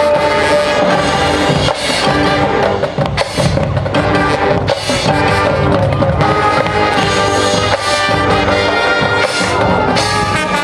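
High school marching band playing: brass sections holding sustained chords over drumline percussion.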